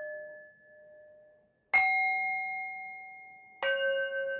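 Struck bell-like chime tones, each a different pitch and each ringing on and slowly fading. One is already ringing at the start, a second is struck about two seconds in and is the loudest, and a third comes near the end. The chimes are rung to mark the end of a guided meditation.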